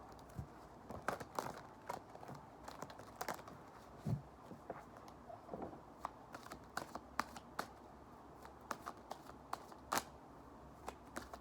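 Tarot cards being shuffled and handled by hand: many quick, irregular clicks and snaps of card against card, with a couple of soft low thuds.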